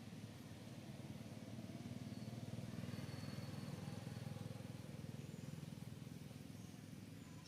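Low engine rumble of a motor vehicle passing, swelling to its loudest about three seconds in and then fading.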